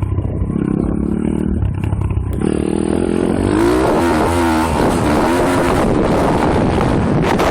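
M2R KX140 pit bike's single-cylinder four-stroke engine heard from onboard. It runs at part throttle with a pulsing note, then about two and a half seconds in the throttle opens, a rush of noise rises, and the revs swing up and down as the bike rides over rough ground.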